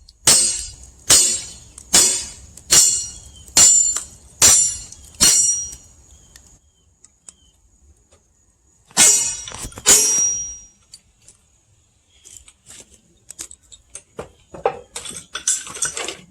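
Sledgehammer striking a steel splitting wedge driven into a log, each blow ringing metallically. Seven steady blows come a little under a second apart, then after a pause two more, as the wedge sinks into the wood; softer scattered clattering follows near the end.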